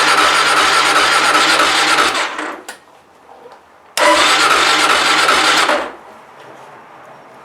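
Kawasaki KLR 650's single-cylinder engine being cranked by its electric starter in two tries of about two seconds each, turning over with an even beat but not catching. It is a cold start at about minus 15, and the bike turns out to be frozen up.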